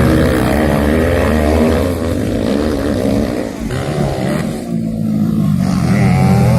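Motocross bikes racing, several engines revving up and down through the gears. The engine noise drops back a little past halfway, then builds again as more bikes come on near the end.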